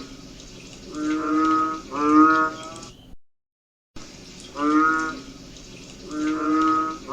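Banded bullfrogs (Asian painted frogs) calling: deep, moo-like calls, each under a second, coming in pairs, like cattle lowing. The sound drops out briefly about three seconds in, then the calls resume.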